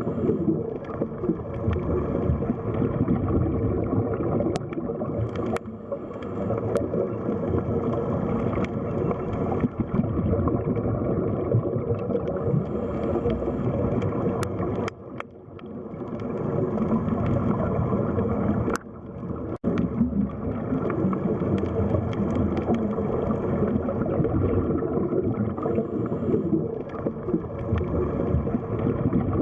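Underwater sea ambience: a steady, muffled churning wash of water with gurgling, dipping briefly twice near the middle, with a few faint sharp clicks.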